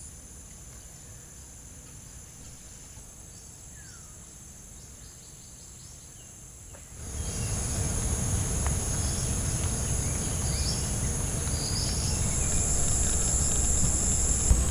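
Steady high-pitched drone of insects in two pitches, with a few faint bird chirps. About seven seconds in it all gets louder, and a low rushing noise comes in under the insect drone.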